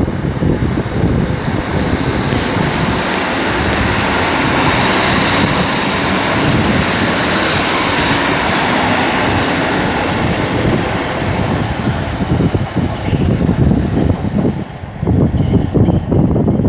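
A train passing close by along the platform: a dense rush of wheel and engine noise that builds to a peak midway and eases off near the end, with gusty rumble from the air it pushes on the microphone.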